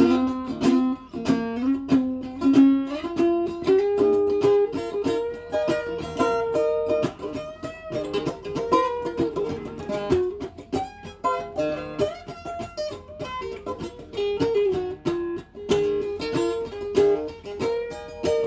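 Instrumental guitar break: many quickly plucked notes carrying a moving melody, with no singing.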